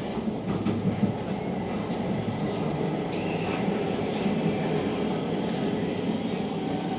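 Running noise inside a JNR 115 series electric train as it rolls into a station: a steady rumble of wheels on rail with a few faint clicks over rail joints.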